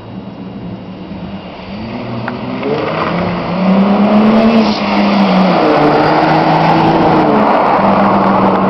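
1999 Chrysler 300M's 3.5-litre V6 accelerating hard through a Flowmaster exhaust. It grows louder over the first few seconds as the car approaches. The engine pitch rises, drops briefly about five seconds in as if on a gear change, then climbs again.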